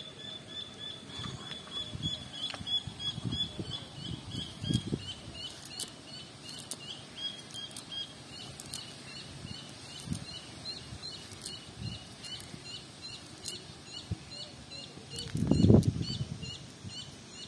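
A bird calls with a short high note, first in a quick run and then repeated about twice a second. Underneath are low rustles from a cast net being handled on grass, with one louder rustle near the end.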